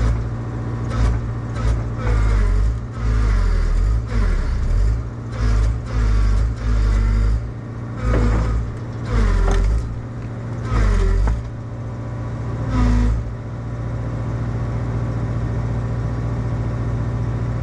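Excavator diesel engine and hydraulics working under load in repeated short surges, with whining notes that slide up and down in pitch. About thirteen seconds in, the surges stop and the engine runs steadily.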